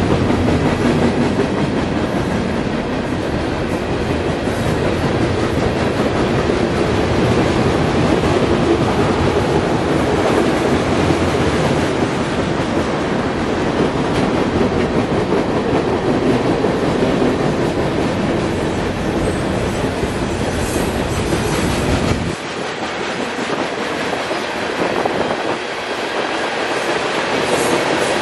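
Freight train of covered hoppers and tank cars rolling past, with the steady noise of steel wheels on rail. The deep low rumble drops away suddenly near the end while the rolling noise carries on.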